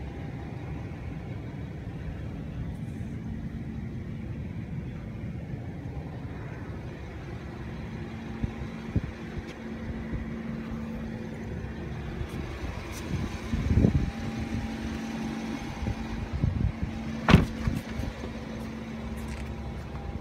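Rolls-Royce Wraith's twin-turbo V12 idling with a steady low hum. A few sharp knocks come in the second half, the loudest near the end.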